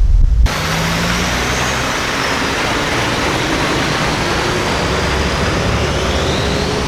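Low wind rumble on the microphone for the first half second, then heavy sand-haul dump trucks running: a steady, loud rush of engine and tyre noise, with a faint whine rising near the end.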